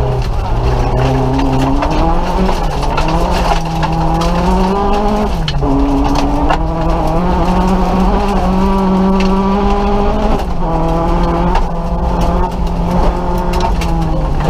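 Nissan Micra rally car's engine driven hard, heard from inside the cabin: the revs climb, drop sharply about five and a half seconds in, climb and hold high, then drop again about ten and a half seconds in. Scattered sharp clicks sound over the engine.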